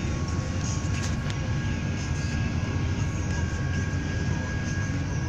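Double-stack container freight train rolling past, a steady rumble of wheels on rail with two faint steady high tones running through it.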